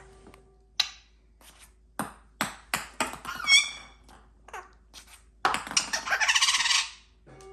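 Pet parrot making a series of sharp clicks and knocks, with a short whistled chirp about halfway through. A little after five seconds it gives a loud, harsh screech lasting over a second.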